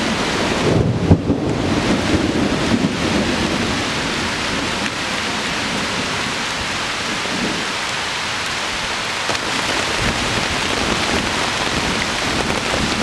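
Heavy rain pouring steadily onto a tarp shelter in a thunderstorm, with a low rumble of thunder in the first few seconds.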